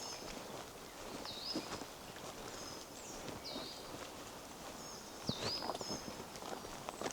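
Footsteps on a forest path, with a songbird repeating a short high call that swoops down and levels off, three times, among a few other brief chirps.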